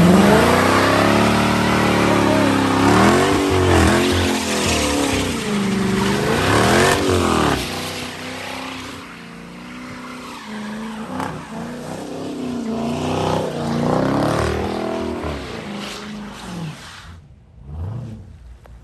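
Car engine revving hard in repeated rises and falls while the rear tyres spin on wet pavement during a burnout and donuts, with a rushing hiss of tyre noise and spray. The revving drops away near the end.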